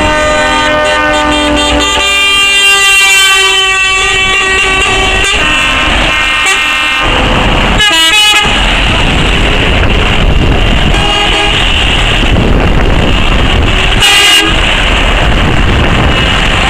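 Lorries' air horns sounding over the noise of truck engines: long blasts through the first five seconds, then shorter ones about eight and fourteen seconds in.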